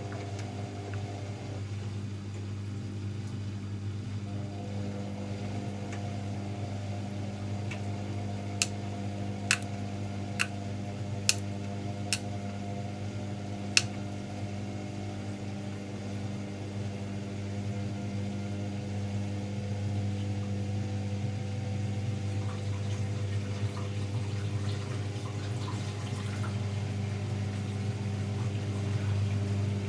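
AEG Lavamat L74810 front-loading washing machine running with a steady low hum and water sounds, broken by six sharp clicks about a third of the way through.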